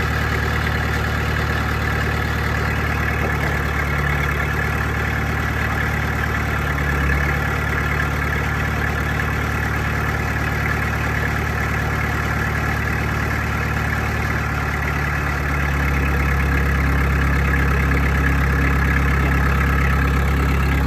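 Dresser bulldozer's diesel engine idling steadily, growing a little louder about fifteen seconds in.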